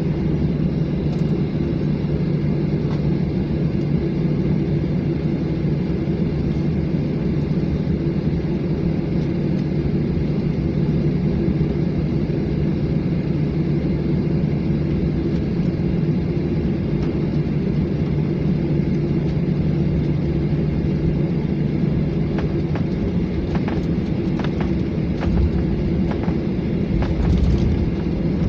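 Jet airliner heard from inside the cabin: a steady low engine rumble with an even hum, and a few light knocks and rattles near the end.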